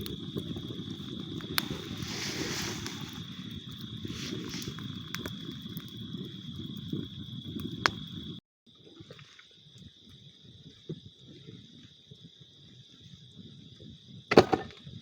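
Large bonfire burning fiercely, with dense crackling and scattered sharp pops, under a steady high trill of night insects. About eight seconds in the sound cuts and continues quieter, the insect trill still going, with a sharp knock near the end.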